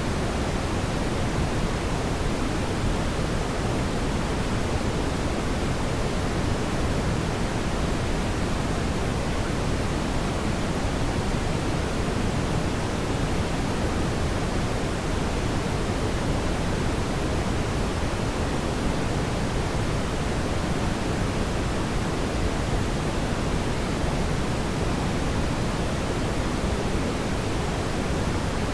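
Fireplace ambience: a steady, even rushing noise, heaviest in the low range, with no distinct crackles or pops.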